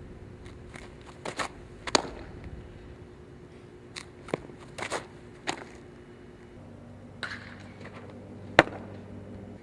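Sharp cracks of a softball being struck or caught in drills, about eight irregularly spaced impacts with the loudest near the end, over a faint steady hum.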